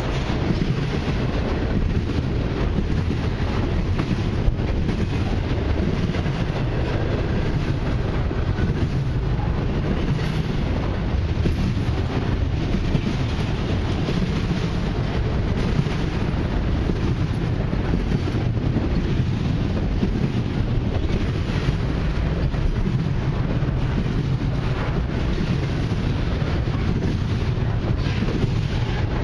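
Double-stack intermodal container cars rolling past close by: a steady rumble of steel wheels on the rails, with occasional sharp clicks.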